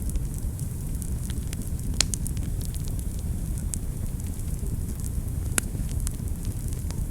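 Wood fire burning in a fireplace: a steady low rumble with scattered sharp crackles and pops, the loudest about two seconds in and again near five and a half seconds.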